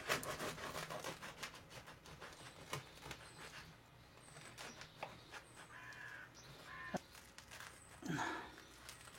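Knife sawing through a crusty loaf of Dutch-oven bread, the hard crust crackling densely for the first couple of seconds, then in fainter, scattered cracks.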